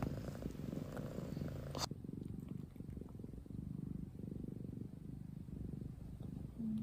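Domestic cat purring steadily, a low rapid rumble.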